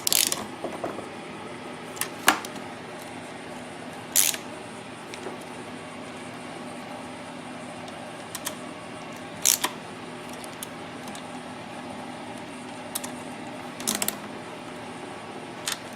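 Valve cover bolts being run down by hand on a small generator engine: a few sharp metallic clicks and taps of the tool on the bolts, spaced seconds apart, over a faint steady hum.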